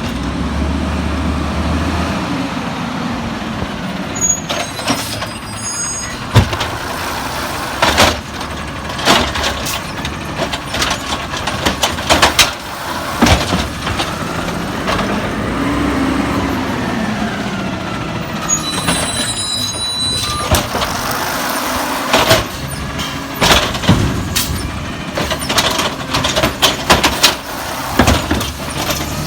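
Peterbilt 320 garbage truck at work, its engine running and revving up and down, with repeated knocks and clanks and short bursts of air hiss.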